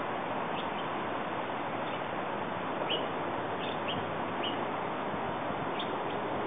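Small birds chirping, short single chirps every second or so, over a steady background hiss.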